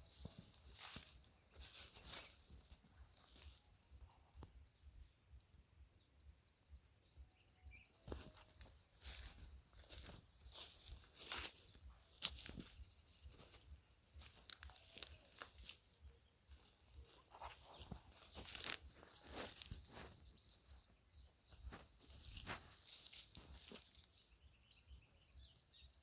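Insects trilling steadily at a high pitch, with louder pulsing trills in three stretches during the first nine seconds. Scattered rustles and clicks run through it.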